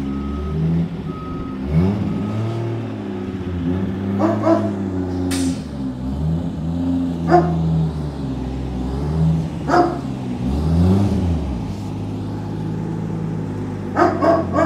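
R32 Nissan Skyline's engine running at low speed, its pitch rising and falling as the car is driven slowly into a driveway. A dog barks several times over it, the last two barks close together near the end.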